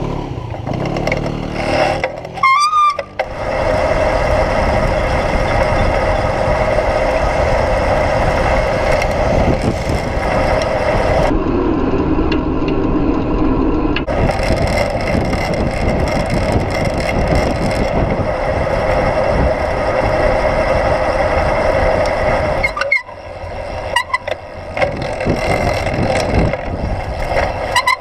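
Road vehicle noise while riding through city traffic. An engine rises in pitch in the first couple of seconds, then a steady loud rush of riding noise runs for about twenty seconds. It turns quieter and patchier with a few sharp clicks a little before the end.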